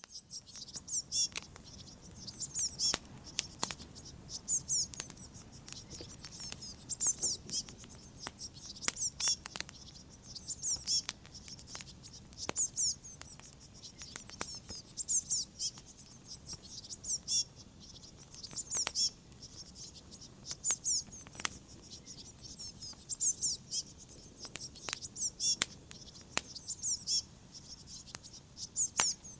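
Log fire crackling with scattered sharp pops, under a cricket chirping in short high bursts about every two seconds.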